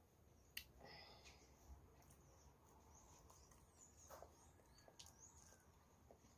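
Faint mouth sounds of someone eating a soft banana: scattered wet smacks and clicks of chewing, with one sharp click about half a second in.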